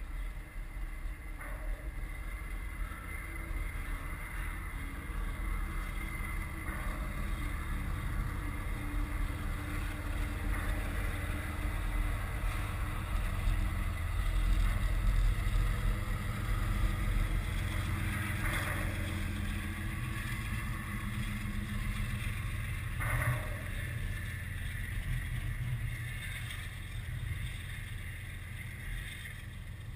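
Double-stack container freight train rolling past: a steady low rumble of steel wheels on rail, with two brief louder clanks about 18 and 23 seconds in, easing off near the end as the last cars go by.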